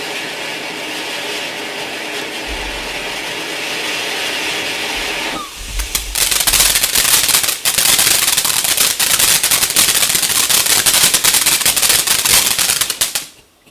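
Garden firework going off: a steady hiss for about five seconds, then a louder, rapid crackling barrage that cuts off suddenly near the end.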